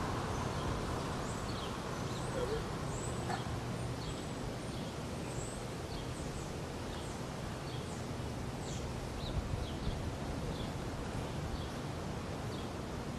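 Birds chirping, many short high calls, some sliding downward, scattered throughout over a steady low outdoor rumble.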